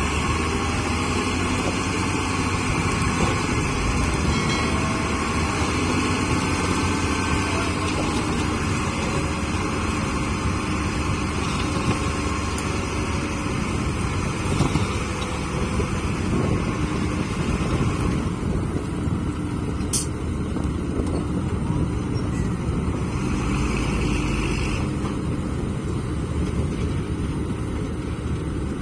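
A vehicle engine running steadily, with a single sharp click about twenty seconds in.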